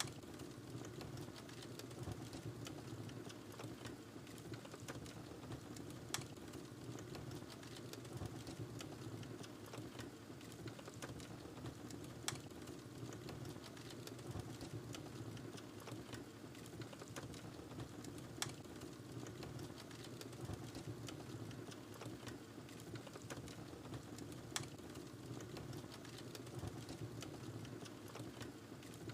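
Wood fire crackling in a fireplace: a steady low rumble from the flames with constant small crackles, and a louder pop about every six seconds.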